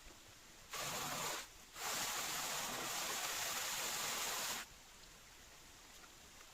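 Rushing, hissing water in two bursts: a short one about a second in, then a longer one of about three seconds. Each starts and stops abruptly, with a fainter hiss of water between and after.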